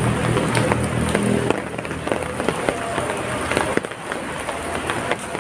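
Heavy rain falling, a dense patter of drops hitting nearby surfaces. A low hum runs under it and stops about a second and a half in.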